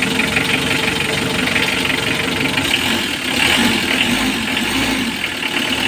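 Mitsubishi L300 van's diesel engine idling steadily.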